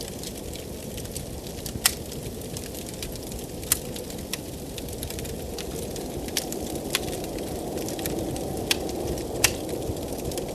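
Wood fire crackling, with sharp separate pops every second or two, over a steady rush of blizzard wind.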